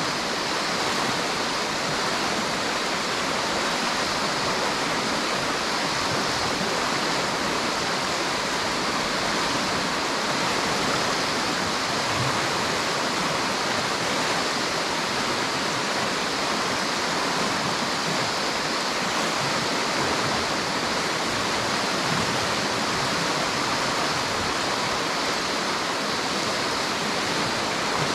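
River water rushing and splashing steadily over rocks, an even, unbroken sound.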